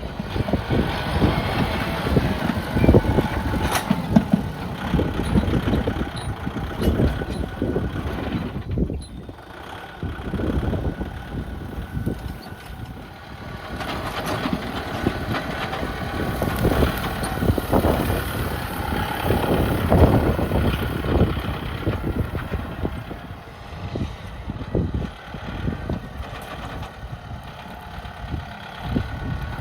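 Kubota tractor engine running, its level rising and falling, with irregular rattling throughout.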